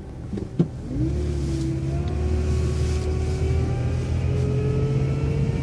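City transit bus accelerating out of a right turn: the engine picks up about a second in and a drivetrain whine rises slowly in pitch as the bus gains speed. Two sharp clicks sound just before the engine picks up.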